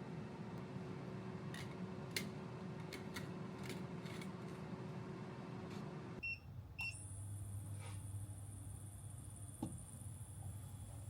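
A steady electrical hum with scattered light clicks cuts off about six seconds in. Two short electronic beeps follow, then a different, lower hum with a faint high whine runs until it stops abruptly.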